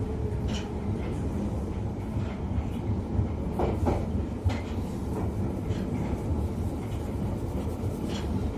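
London Underground Piccadilly line train running between stations, heard from inside the carriage: a steady low rumble of wheels on track with a few sharp clicks.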